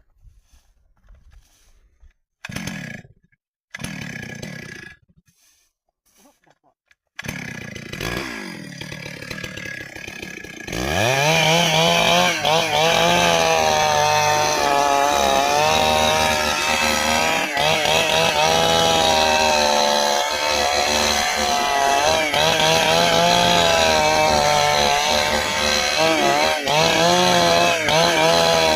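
A Stihl chainsaw starts about seven seconds in and runs at a low idle. A few seconds later it revs to full throttle and cuts into dry ipê hardwood, its pitch wavering as the chain loads and frees in the cut.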